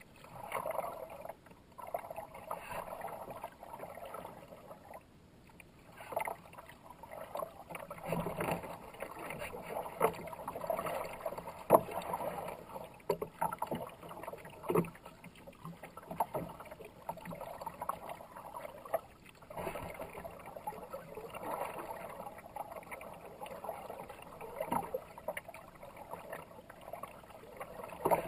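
Kayak paddle strokes splashing in the water, one burst every second or two, with occasional sharp knocks.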